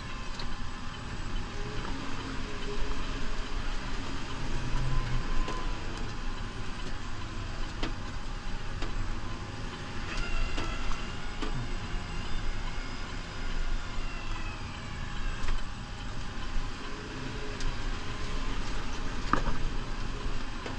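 New Holland Powerstar 75 tractor's diesel engine running steadily while plowing snow, with a few light knocks.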